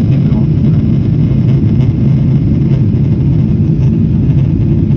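Loud, steady low engine drone with no change in pitch or level.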